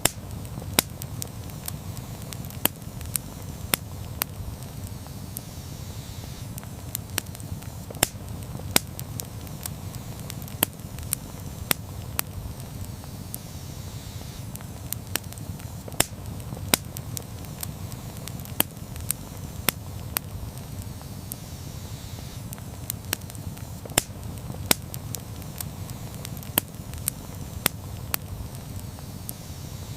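Wood campfire crackling: irregular sharp pops and snaps, several a second at times, over a steady low rumble.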